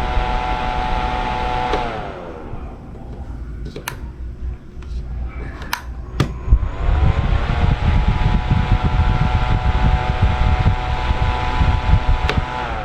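Small motor of an E27 LED ceiling light fan whirring with a whining hum that winds down about 2 s in and spins back up around 7 s, then begins winding down again at the end, as the fan is switched off and on. A few sharp clicks fall in the quiet stretch between.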